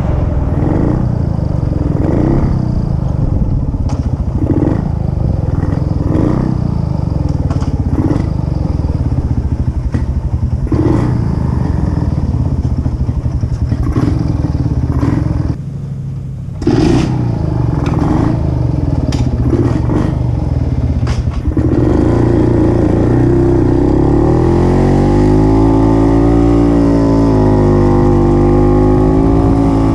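The two-stroke engine of a 1950s Puch 250 TF motorcycle, heard while riding. For the first two-thirds its revs keep rising and falling, with short clattery crackles, as the bike works through tight corners, with a brief dip in level just past halfway. From about 22 s on it runs more steadily, its pitch wavering only slightly.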